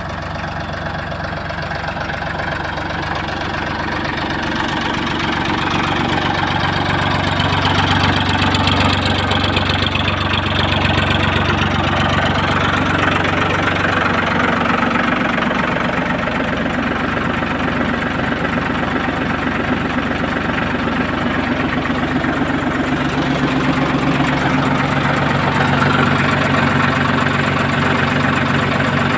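1990 Ford 3600 tractor's three-cylinder engine idling steadily, getting gradually louder over the first several seconds and then holding even.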